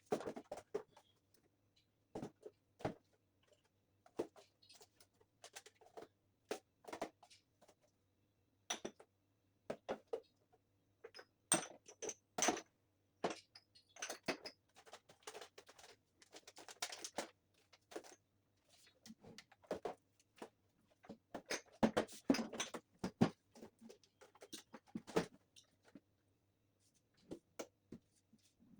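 Irregular clicks, taps and knocks, some in quick clusters, over a faint steady low hum.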